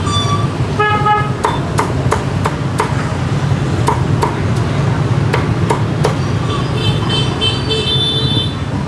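Cleaver chopping roast pork on a chopping block: a run of sharp knocks about three a second, stopping about six seconds in. Under it is steady street traffic, with a vehicle horn honking about a second in and a pulsing horn beeping near the end.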